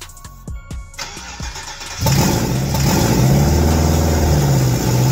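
GM LS V8 engine swapped into a 1986 Monte Carlo, firing for its first start: a short hiss, then the engine catches about two seconds in and runs loudly and steadily at a fast idle.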